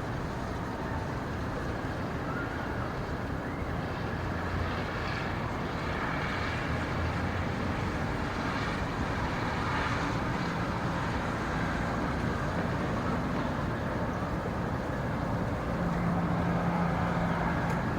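Steady rumbling background noise, with a low steady hum joining near the end.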